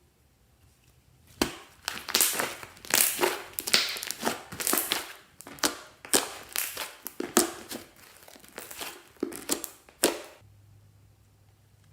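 Hands squeezing and mixing slime with crunchy add-ins: a run of crackling, crunching squishes that starts about a second and a half in and stops about a second and a half before the end.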